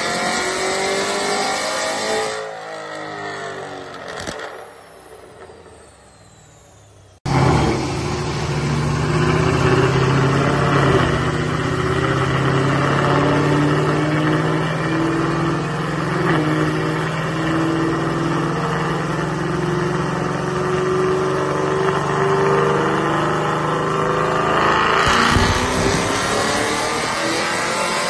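2019 Camaro SS's 6.2-litre LT1 V8 with headers running on a chassis dyno. It winds down and fades in the first seconds, comes back abruptly and runs steadily under load in gear, and near the end the revs begin to climb as a pull starts.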